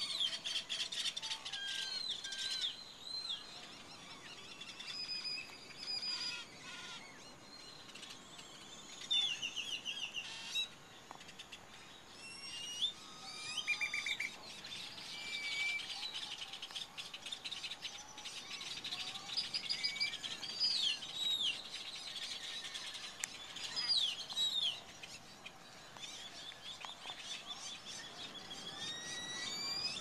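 A chorus of several wild birds calling: high chirps, short rising and falling whistled notes and quick rattling trills, overlapping one another.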